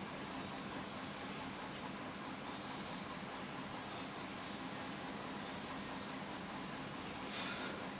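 An insect chirping high and evenly, about three chirps a second, over a steady background hiss, with a short pause about five seconds in. A brief scratchy rustle comes near the end.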